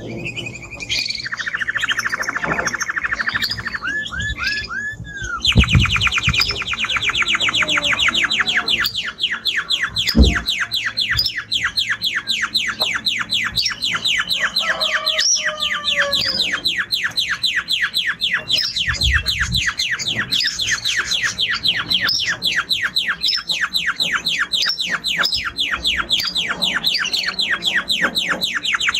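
Male Spanish timbrado canary singing: a few varied phrases, then from about five seconds in one long, fast trill of rapidly repeated notes.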